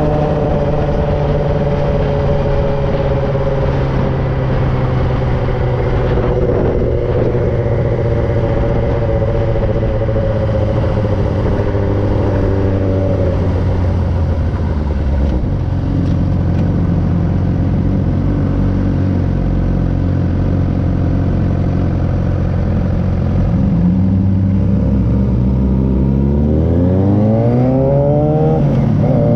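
2009 Suzuki GSX-R 600's inline-four engine through an M4 aftermarket exhaust, running while riding: the revs ease slowly down over the first half, hold steady, then climb sharply near the end, dipping briefly at a gear change before rising again.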